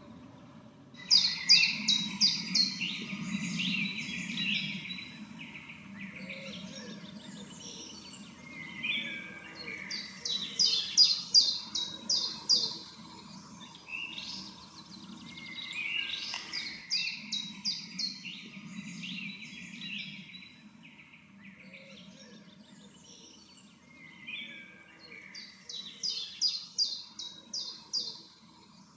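A songbird singing four separate phrases, each a quick run of repeated clear notes followed by varied twitters, with pauses of a few seconds between them, over a faint low background rumble.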